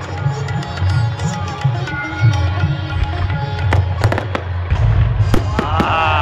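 Fireworks display: rumbling booms with several sharp bangs of bursting shells near the middle and end, over music playing with tabla-like drumming.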